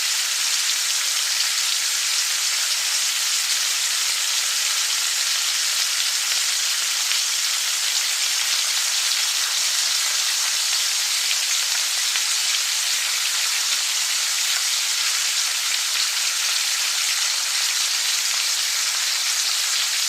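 Food frying in hot oil in a pan: a steady, even sizzling hiss.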